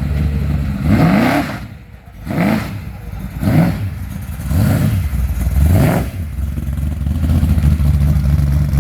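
A vehicle engine running at idle and being revved in about five short throttle blips, each a quick rise in pitch that falls back.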